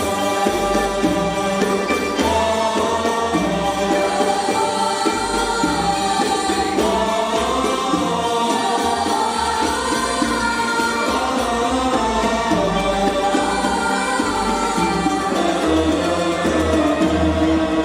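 A choir singing an Arabic song in unison, with instrumental accompaniment and a steady low drum beat.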